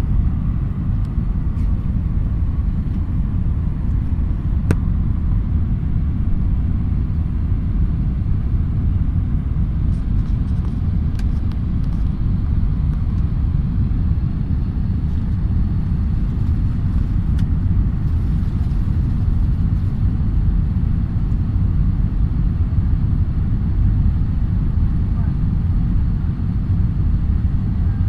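Steady low rumble inside an Airbus airliner's passenger cabin: engine and airflow noise, even throughout, with a few faint clicks.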